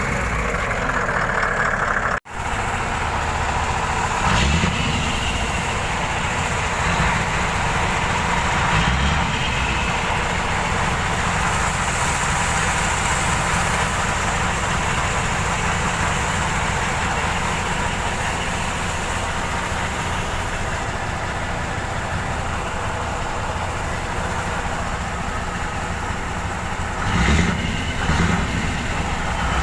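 Scania R580 truck's V8 diesel engine running steadily, with a few louder surges; the sound drops out for an instant about two seconds in.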